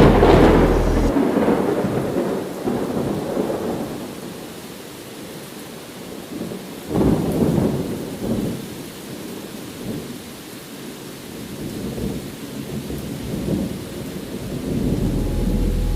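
Rain falling with rolling thunder. A loud crack right at the start dies away over several seconds, another rumble comes about seven seconds in, and lighter rolls follow near the end.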